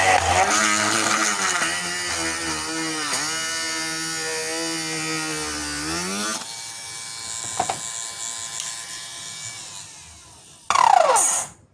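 Homemade mini drill's 775 DC motor running at high speed. Its pitch dips and recovers as the bit is loaded, then it stops about six seconds in. Near the end a short loud whirr falls in pitch.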